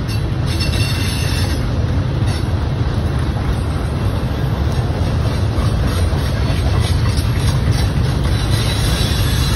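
Freight cars of a CSX mixed train rolling past: a loud, steady rumble of wheels on the rails, with a faint high wheel squeal near the start and again near the end.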